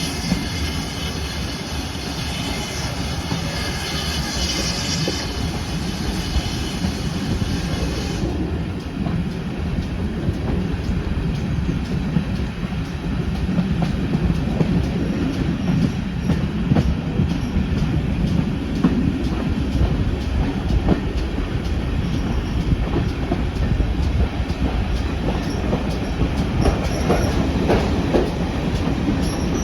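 Heritage railway train running on the track: a steady rumble of wheels on rails with faint rhythmic clicks from the rail joints. For the first eight seconds or so a high squeal sits over it, then cuts off abruptly.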